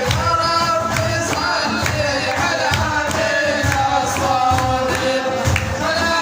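A madih, an Arabic devotional praise song, sung by a male voice in a bending, melismatic line over a steady percussion beat.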